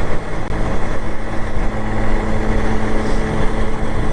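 Small TVS 50 moped engine running steadily while riding, an even drone under a constant rush of noise.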